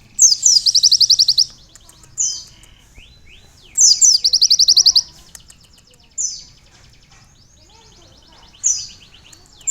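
Kolibri ninja sunbird singing a high, canary-like song: two loud, fast trills, each about a second long, with short sweeping phrases and quieter twittering in between.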